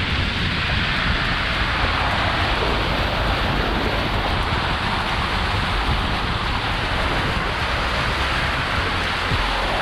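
Steady rushing noise of heavy rain and wind, with a low rumble underneath.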